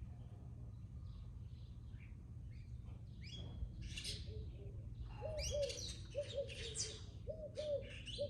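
Garden birds chirping, with a lower call repeated in short, downward-curving notes from about five seconds in. A steady low rumble runs underneath.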